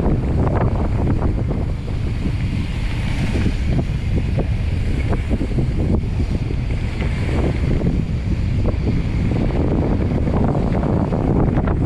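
Wind buffeting the camera's microphone during a mountain bike descent, a steady low rumble, with frequent small clicks and rattles from the bike and its tyres on the dirt trail.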